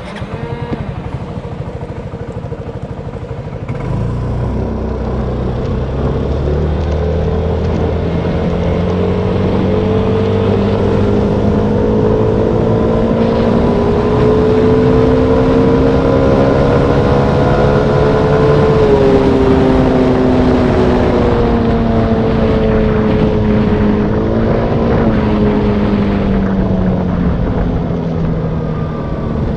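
Motorbike engine running under way, growing louder about four seconds in, then its pitch climbing slowly for over ten seconds before dropping sharply and easing down again.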